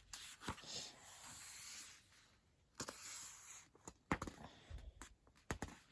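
Paper pages of a coloring book being turned and handled: two soft swishing rustles with a few sharp paper flicks.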